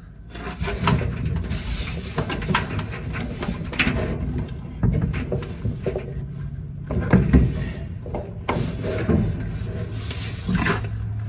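Samsung dryer drum being lifted and fitted into the dryer cabinet: repeated metal knocks, clunks and scraping of sheet metal, with a low hum underneath.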